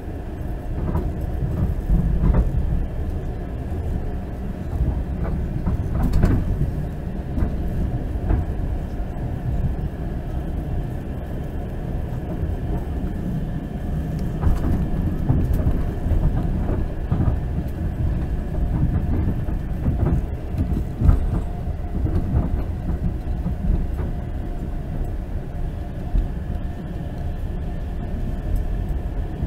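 Long-distance passenger train in motion, heard from inside the carriage: a steady low rumble of the wheels on the rails, with scattered clicks and knocks from the track.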